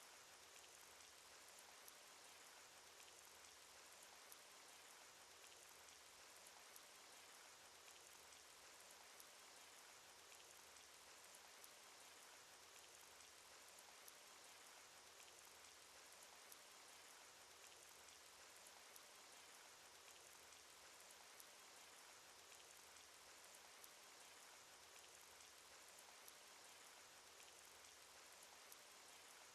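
Faint, steady rain sound effect: a hiss of rainfall with many small raindrop ticks scattered through it.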